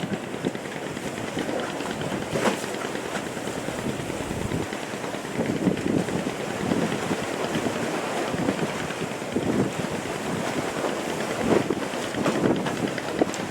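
Wind buffeting the microphone over the rush and slap of water around a boat's hull, swelling and easing unevenly, with a couple of sharper splashes.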